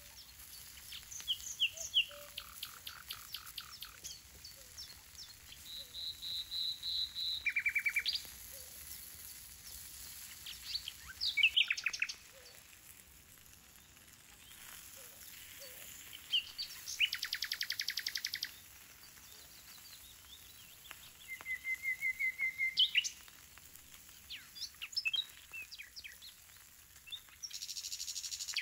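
Songbirds chirping and singing: short bursts of rapid, high repeated notes and trills, coming every few seconds.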